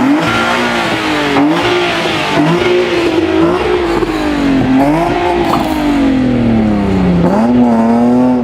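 Car engine revving hard and held at high revs, its pitch rising and falling repeatedly with a long slow drop near the middle before climbing again; it cuts off suddenly at the end.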